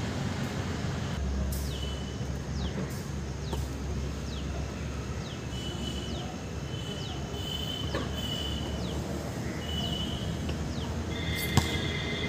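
A bird calling over and over from the trees, a quick downward-sweeping chirp roughly every half second with some short held notes, over a steady low rumble. A single sharp knock near the end.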